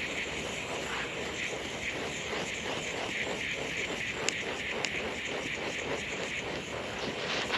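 Water from a garden hose running steadily into a bucket, a constant hiss.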